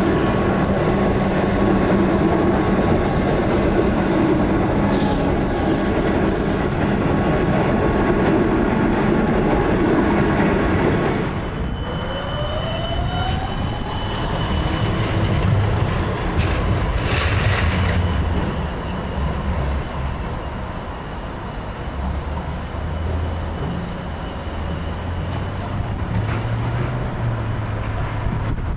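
Melbourne electric suburban train running loudly on the rails for about eleven seconds, then quieter. Soon after the drop a whine rises in pitch, typical of an electric train's traction motors as it pulls away, with some high wheel squeal along the way.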